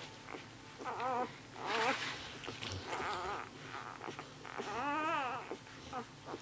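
Newborn Bernese Mountain Dog puppies squealing and whimpering in short, wavering cries, the longest a rising-then-falling cry about five seconds in, with snuffling noises between.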